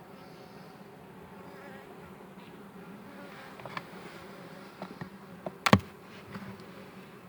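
Honeybee colony buzzing steadily, with a few light clicks and one sharp knock, the loudest sound, about two-thirds of the way through.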